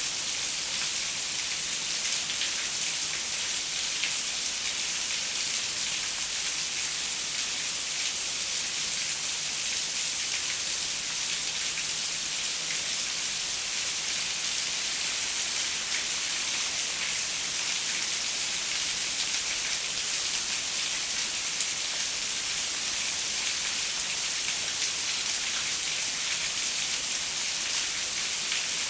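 Steady rain falling on a window glass: an even hiss of countless small drop ticks, strongest in the high range, with no thunder.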